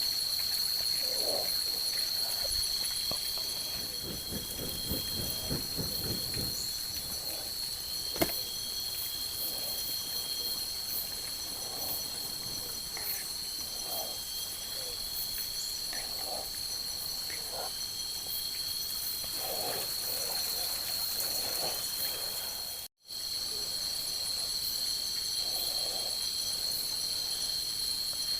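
Night chorus of crickets and other insects: a steady high shrill trill, with a second, lower trill that comes and goes. A low pulsing rattle runs briefly about four seconds in, one sharp click comes about eight seconds in, and the sound cuts out for an instant a little after twenty seconds.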